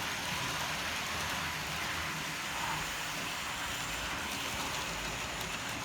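Model train running on the layout's track: a steady, even rushing noise of the locomotive's motor and wheels on the rails.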